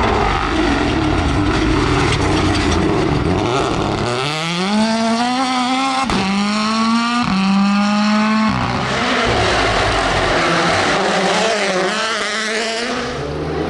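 Rally car accelerating hard past, its engine pitch climbing through two quick upshifts a little over halfway in, then dropping off abruptly as the driver lifts. Rough engine and tyre noise before and after the run of rising pitch.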